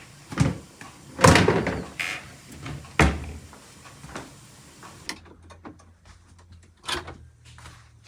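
A series of knocks and bangs, like a door or cupboard being handled, the loudest a longer clatter about a second in and a last knock near the end.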